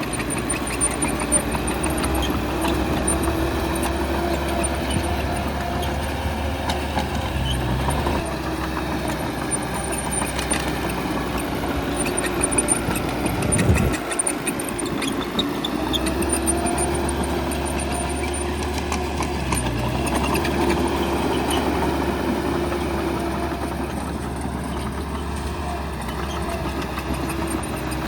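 Bulldozer's diesel engine running under changing load, its note rising and falling, with a few metallic knocks from the machine at work.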